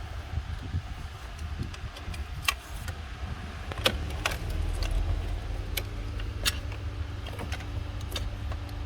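Sharp plastic clicks and rattles, about half a dozen spread over several seconds, as a Toyota Fortuner's dashboard trim panel is worked free of its clips and connectors. Under them is a steady low rumble.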